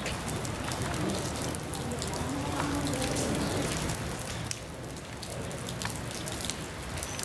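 Rainstorm downpour: rain pouring down and spattering on the street and nearby surfaces, a steady hiss studded with countless sharp drop impacts.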